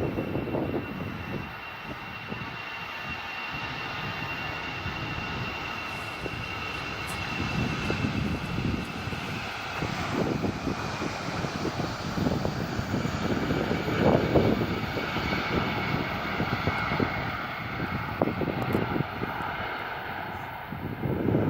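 Jet airliner landing, its engines giving a steady whine that slowly falls in pitch over a low rumble that swells and fades in gusts.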